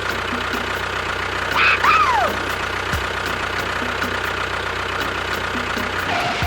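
An engine running steadily at idle with a regular ticking knock. About two seconds in, a brief high squeal rises and then falls in pitch.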